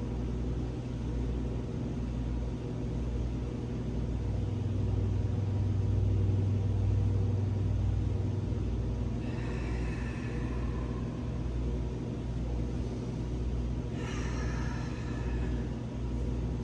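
A steady low rumble with a hum, swelling slightly in the middle, and two faint breaths, about ten and fourteen seconds in.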